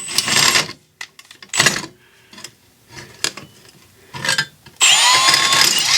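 Metal parts clattering and being shifted about. About five seconds in, a power drill spins up with a rising whine and runs, with a stepped-point drill bit cutting into metal.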